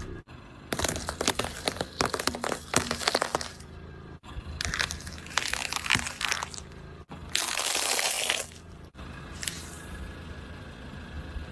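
Brittle objects cracking and crunching as a car tyre rolls over them: dense crackles and snaps in about four bursts, each cut off abruptly.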